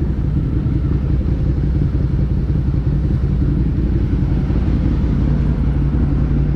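Suzuki SV650's 90-degree V-twin with an SC-Project slip-on exhaust running steadily at low revs, off the throttle as the bike rolls slowly and slows down.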